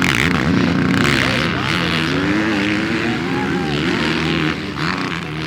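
A pack of motocross bikes racing past at full throttle, several engines revving over one another with rising and falling pitch, easing off near the end.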